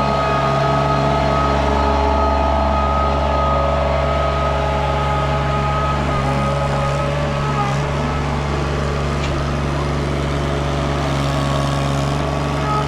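Mini skid steer's engine running at a steady speed, with an even, unchanging drone.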